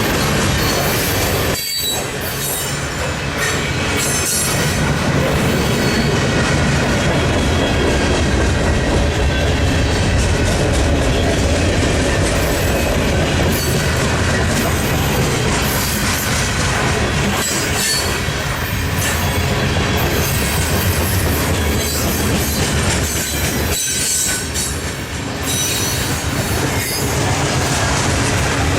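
Railroad cars rolling past, wheels clattering over the rail joints and squealing against the rails, with two brief dips in loudness.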